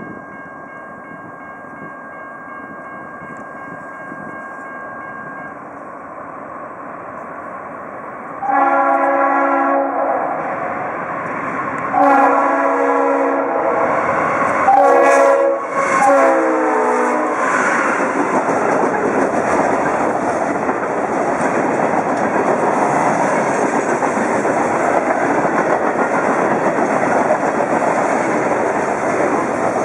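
Diesel train approaching with a slowly rising rumble, then the locomotive's multi-chime air horn sounding the grade-crossing signal, long, long, short, long, starting about eight seconds in. The train then passes close with loud, steady wheel and rail noise.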